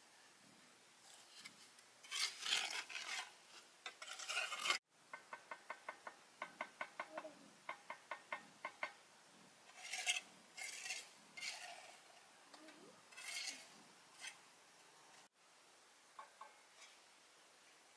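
Scraping strokes, then a quick run of light ringing taps about three a second, then more scraping.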